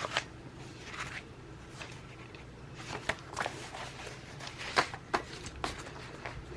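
Paper and planner supplies being handled: scattered short rustles and light taps.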